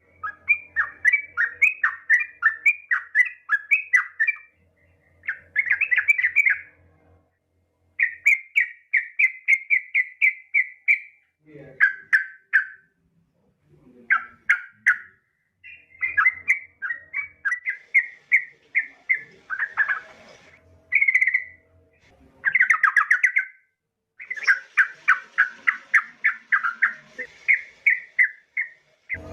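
Yellow-vented bulbul (trucukan) calling: phrases of quick chattering notes, each a second or two long, repeated with short pauses. The calls are billed as a female calling a male.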